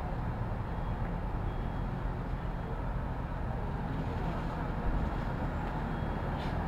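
City street traffic: a steady noise of passing vehicles, with most of its weight low.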